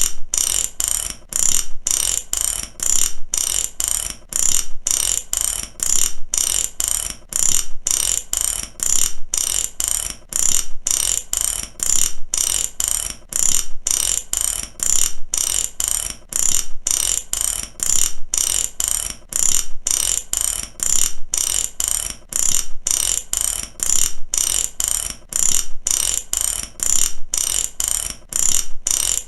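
Mechanic's ratchet wrench being worked back and forth, a steady run of rapid pawl clicks repeating in short strokes about twice a second.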